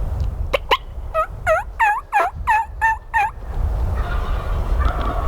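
Turkey call sounding a quick run of about nine hen yelps, evenly spaced and dropping in pitch at the end of each note, to draw in a gobbler. Wind rumbles on the microphone throughout.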